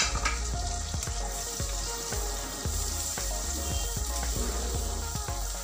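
Garlic cloves sizzling as they fry in melted butter in a pan, stirred with a silicone spatula, with scattered light taps.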